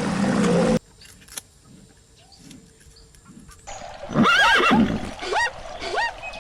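Equine whinnying: a run of short pitched calls, each rising and falling, from about four seconds in. This follows a loud rushing noise that cuts off suddenly under a second in.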